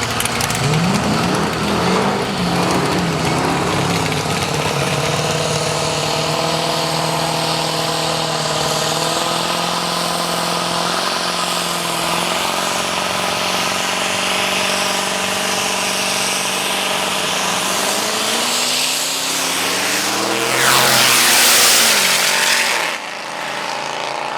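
Drag-racing vehicle engines revving and accelerating, their pitch climbing in several sweeps. Near the end a loud rushing hiss builds and then cuts off sharply.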